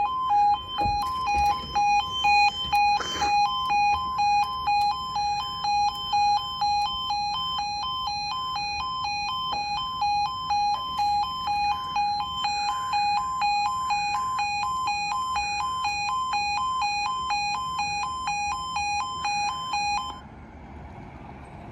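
Level crossing warning alarm: two tones alternating rapidly and steadily, stopping abruptly about 20 seconds in.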